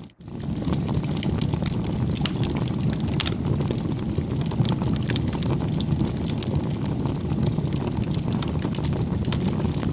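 Campfire crackling: irregular sharp pops and snaps over a steady low rumble of burning wood. The sound cuts out for an instant right at the start, then carries on.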